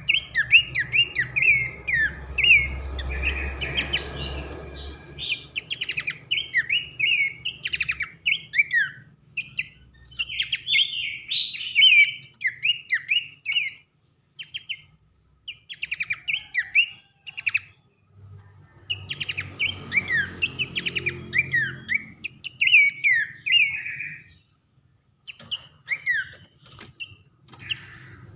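Horsfield's babbler (pelanduk semak) singing loud, rapid runs of short down-slurred whistles, in bursts separated by brief pauses. A low rumble sits under the song twice.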